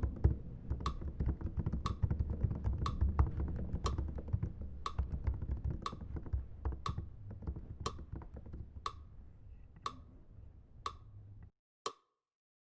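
Fingers typing quickly on a computer keyboard, with a steady sharp tick about once a second over a low hum. Everything cuts off suddenly near the end, leaving one last tick.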